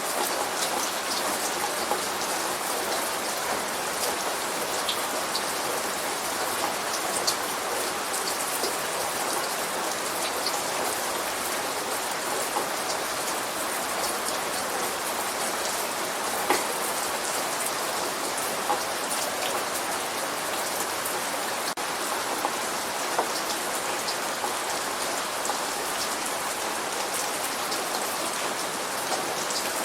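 Light rain falling steadily, an even hiss of rain with scattered individual drops ticking on a surface.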